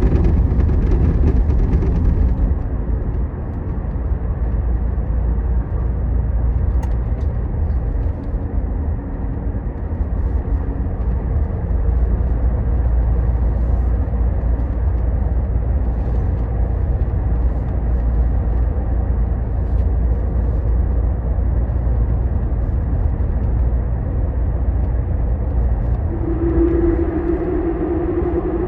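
Scania Astromega double-decker coach cruising on the expressway, heard from inside the cabin: a steady low rumble of engine and tyres on the road. Some higher hiss falls away about two seconds in.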